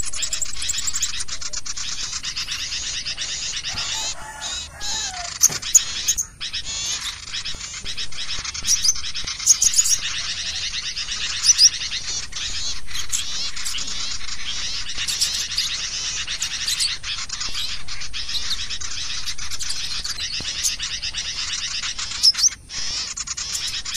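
Dense, continuous chattering and twittering of many small birds, with quick sharp chirps over a busy high chorus. This is a 'crecetan' lure call used to draw in small birds.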